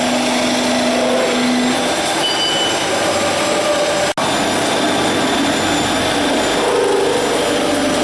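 A CNC beam drilling machine running during a drilling test on a steel beam: loud, steady machine noise with whining tones that come and go and shift in pitch. The noise drops out for an instant about halfway.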